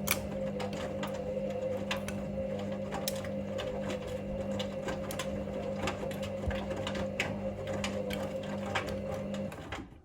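Hoover Link washing machine's motor turning the drum during the main wash: a steady hum with scattered clicks and knocks. It cuts off sharply near the end as the drum stops between tumbles.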